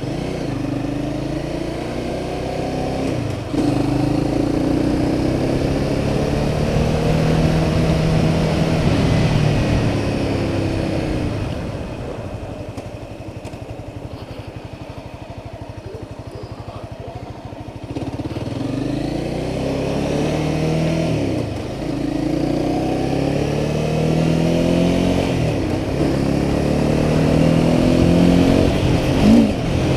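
Honda CBR300R's single-cylinder engine under way, its pitch climbing in repeated rising sweeps as it pulls up through the gears. In the middle it drops and runs quieter for several seconds, then climbs through the gears again.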